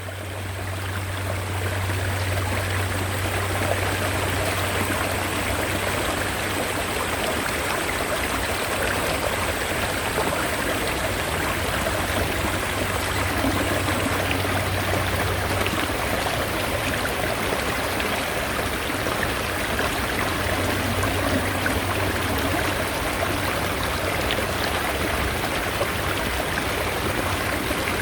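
Mountain stream flowing steadily: an even rush and babble of water, fading in over the first second or two.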